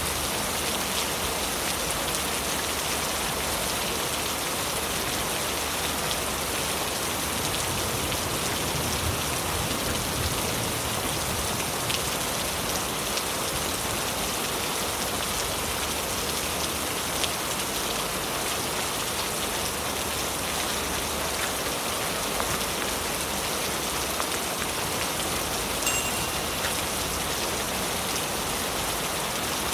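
Heavy rain falling steadily on leaves, a dense even hiss made of countless drop impacts, with a few slightly louder single drips now and then.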